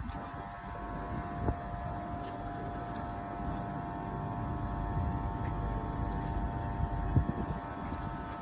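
A train standing or moving slowly at a station platform, its engine and equipment running steadily with a constant whining hum over a low rumble. There are a couple of sharp knocks, one about a second and a half in and one near the end.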